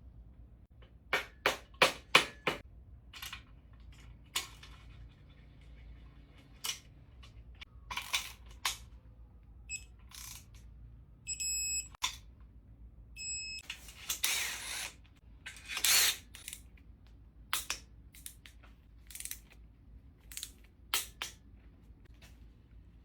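Scattered metallic clicks, clinks and knocks of hand tools being handled around an engine, with a few short electronic beeps about halfway through.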